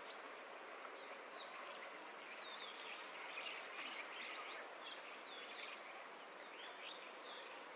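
Small birds chirping: many short, quick high chirps and slides in pitch, scattered and overlapping, over a steady faint outdoor hiss.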